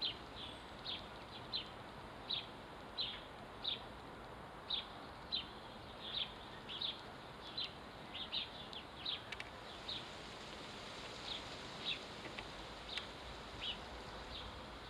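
House sparrow chirping repeatedly, short cheeps about two a second that thin out after about ten seconds, over faint steady background noise.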